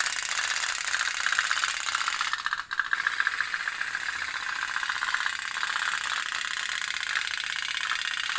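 Otok-otok (pop-pop) toy boat's oil-flame-heated tin boiler putt-putting in a fast, steady rhythm, with a brief dip about two and a half seconds in.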